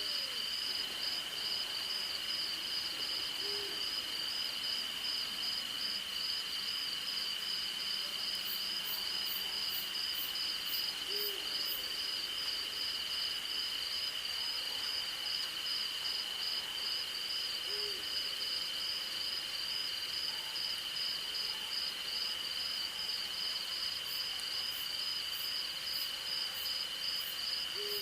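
Night forest chorus: crickets and other insects trilling steadily at a high pitch, while an owl gives single short hoots a few seconds apart. Twice a very high, rapid insect ticking joins in for a few seconds.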